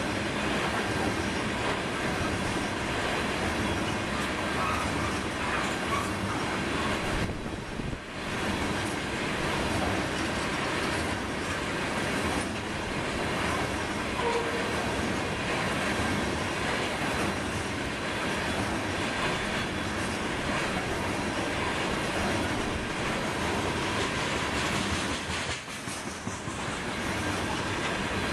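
Freight train of tank cars rolling past: a steady noise of steel wheels on rail that dips briefly about eight seconds in and again near the end.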